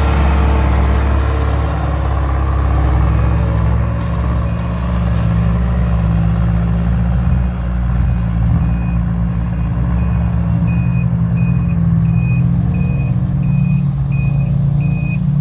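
Six-wheel truck's diesel engine running under load while reversing, its reversing alarm beeping steadily at a high pitch, faint at first and clearer in the second half.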